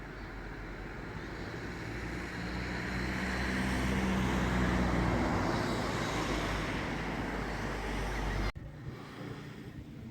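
A motor vehicle's engine and road noise swelling as it passes close, then cutting off suddenly.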